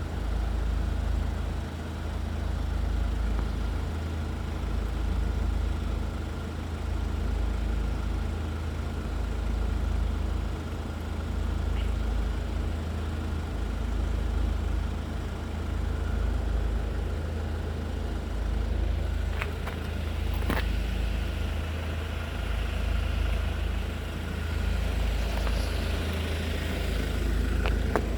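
Low, steady rumble of road traffic, with two sharp clicks about two-thirds of the way through and a rising hiss of a vehicle passing near the end.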